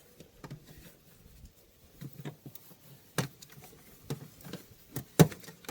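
Scattered clicks and light knocks of a plastic cowl trim panel and its brittle retaining clips being pried up with a trim tool, with two sharper snaps about three and five seconds in.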